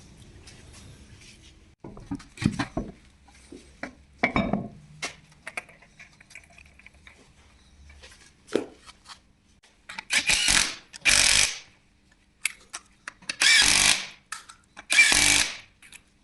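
A handheld power tool run in four short bursts in the second half, after a few scattered metal clicks and knocks.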